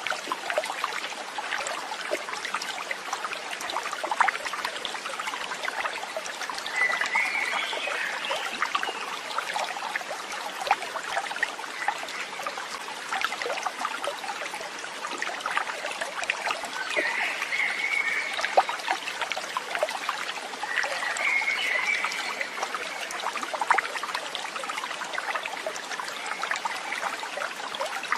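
Water trickling and splashing steadily, like a small stream, with many small ticks of droplets. A few short high chirps come through about a quarter of the way in and twice more past the middle.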